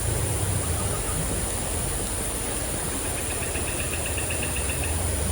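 Steady hiss of heavy rain and rushing water, with a constant high-pitched insect drone above it. About three seconds in comes a short, rapid chirping trill of about eight pulses a second, lasting under two seconds.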